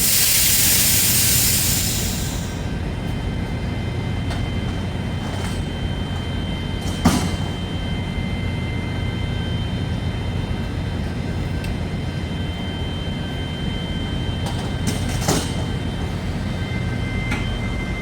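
Semi-truck's steady low engine and road rumble, opening with a loud hiss of about two seconds, with a few sharp knocks along the way.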